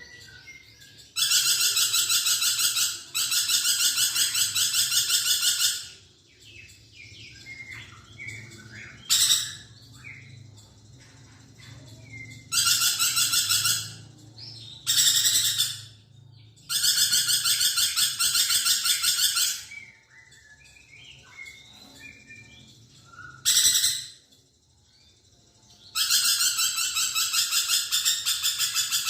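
Lorikeet calling: loud, fast, rasping trills of a few seconds each, about seven in all, with softer short chirps in the gaps between them.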